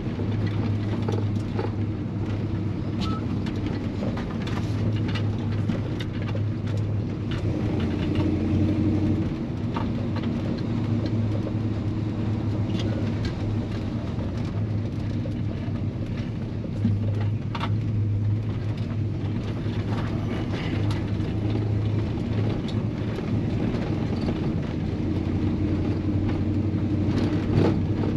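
Chevy C-10 pickup truck engine running as the truck is driven slowly, heard from inside the cab: a steady low drone that swells now and then, with light knocks and rattles. The engine runs rich, which the owner puts down to a carburetor that needs replacing.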